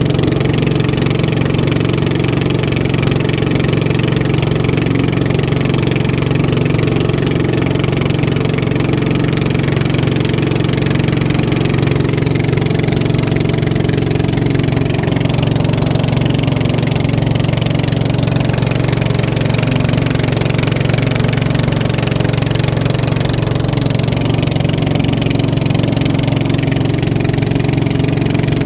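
Boat engine running steadily: one continuous drone that holds the same pitch throughout.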